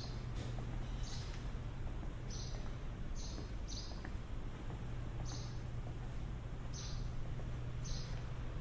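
A small bird chirping: short high chirps repeating irregularly, roughly once a second, over a steady low hum.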